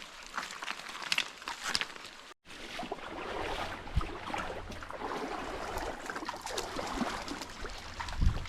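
Stream water running over rocks, with scattered clicks and knocks in the first couple of seconds. After a brief dropout the water sound is steadier, with one sharp thump about four seconds in.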